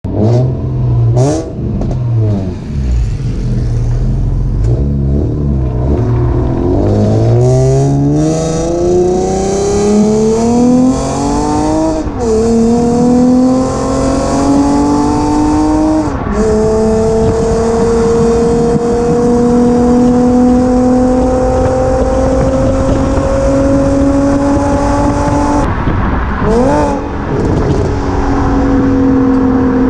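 Cammed Infiniti G35's 3.5-litre V6 through a Stillen exhaust with headers and test pipes: a lumpy, choppy idle with a quick blip, then the car accelerating hard, the exhaust note climbing steadily and dropping back at each of three upshifts.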